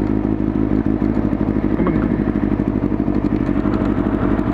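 1999 Kawasaki ZX-9R's inline-four engine running steadily at low revs while the motorcycle rolls along at about idle throttle.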